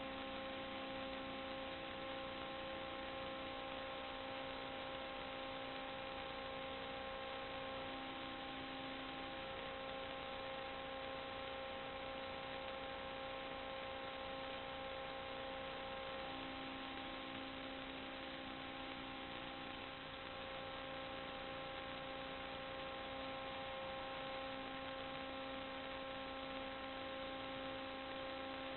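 Steady electrical hum made of several held tones over an even hiss, with no change or break.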